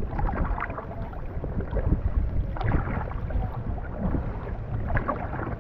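Wind buffeting the microphone as a low, steady rumble, with water splashing from kayak paddles about three times.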